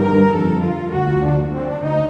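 Roland XP-80 synthesizer playing a factory preset with a brass-like sound, sustained notes and chords moving every half second or so over a bass line.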